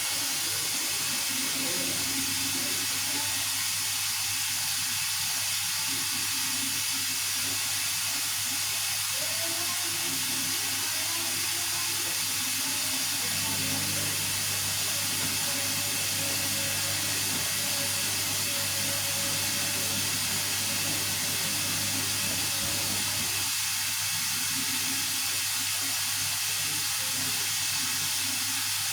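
Vestel CM8710 8 kg washing machine in its final rinse, with a steady hiss of water running into it over a low hum.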